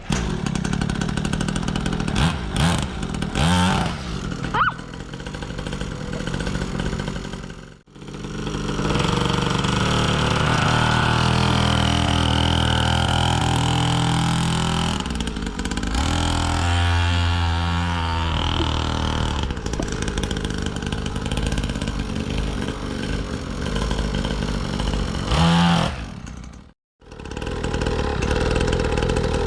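Small petrol dirt bike engine running under a rider, its pitch rising and falling as it is revved and eased off. The sound drops out completely twice, briefly.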